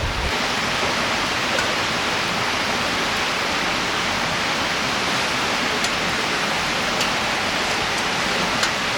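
River water rushing in a steady, even wash, with a few faint clicks about six, seven and eight and a half seconds in.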